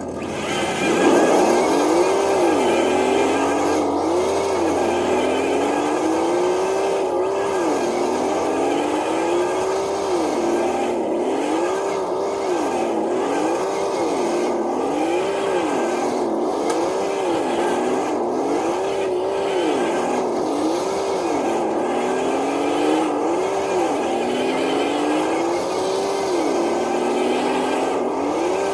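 Traxxas TRX4 RC truck's electric motor and drivetrain whining as it drags a weighted dead sled. The pitch climbs and drops again about every second and a half, as the throttle is worked and the truck loads up under the sled.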